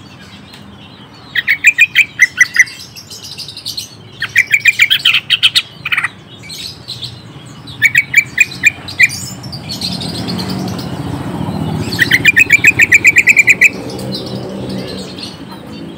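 Cucak ijo (green leafbird) singing in four bursts of quick, repeated chattering notes, each lasting about a second, a few seconds apart.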